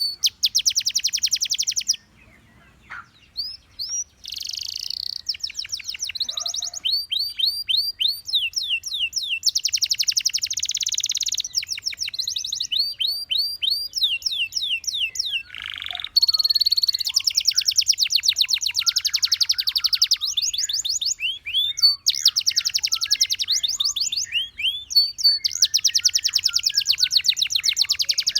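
Gloster canary singing a long, continuous song of rapid trills, repeated sweeping notes and buzzy rolls, broken by a short pause about two seconds in.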